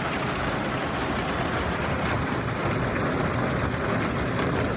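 Hard rain hitting the roof of a pickup truck topper, heard from inside it: a dense, steady patter of drops.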